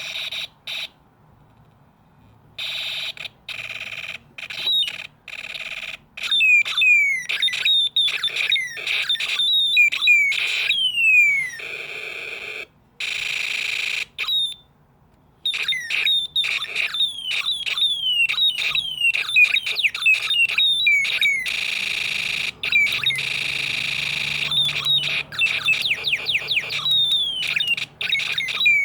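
Electronic sound effects from a Snap Circuits kit's space war and alarm ICs played through its small speaker: many quick falling chirps mixed with stretches of a steady shrill tone, starting and stopping in short bursts.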